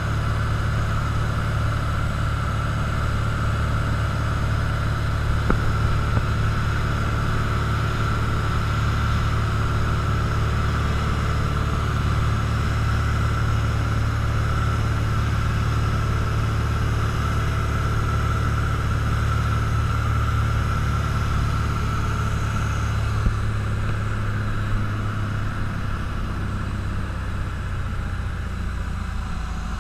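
Cessna 172's piston engine and propeller running steadily in flight, a continuous loud drone. About three quarters of the way through its pitch shifts lower, and it grows a little quieter near the end.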